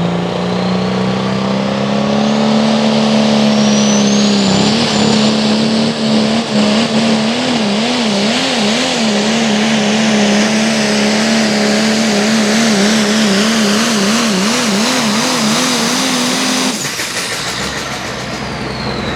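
Turbocharged Pro Stock diesel pickup truck pulling a sled at full throttle. The engine note climbs over the first few seconds, then holds with a fast wavering pitch under a high turbo whistle. Near the end the engine cuts off suddenly, leaving a falling whistle as the turbo winds down.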